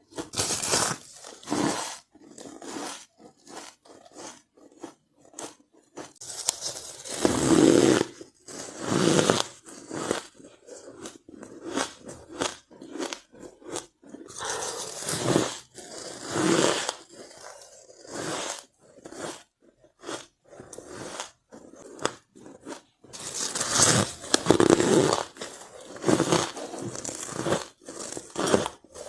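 A person biting into and chewing white ice close to the microphone: crisp crunching and crackling that swells into louder bursts of biting a few seconds long, about every eight seconds, with sparser crackles of chewing between.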